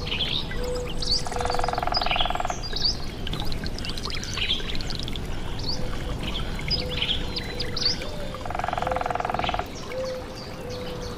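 Recorded nature soundscape: many small birds chirping and calling over a steady rush of flowing water. Twice, about a second in and again near the end, a rapid pulsed trill lasts about a second.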